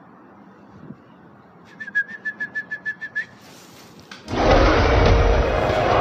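A bird calls a rapid, even string of about ten short, high whistled notes, lasting about a second and a half. About four seconds in, loud music starts.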